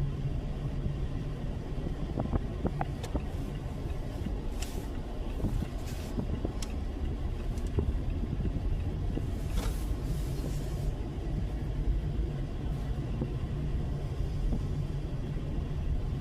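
Steady road and engine rumble heard from inside a car's cabin as it drives, with a few faint clicks and a brief hiss about ten seconds in.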